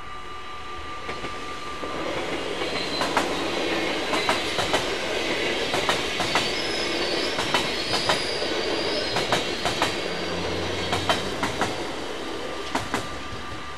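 NS InterCity electric train passing over a level crossing: a steady rumble that builds about two seconds in and fades about twelve seconds in, with sharp clicks of the wheels over the rail joints and a faint high wheel squeal. A level-crossing warning bell rings steadily, heard plainly before the train arrives and again as it leaves.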